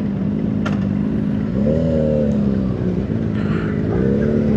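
Motorcycle engine running while riding, with two brief rises and falls in pitch as the throttle is rolled on and off, about two seconds in and again near the end.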